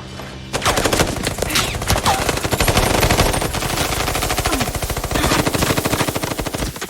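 Rapid automatic gunfire: a dense, sustained run of shots that starts about half a second in, with a few short falling whines among them.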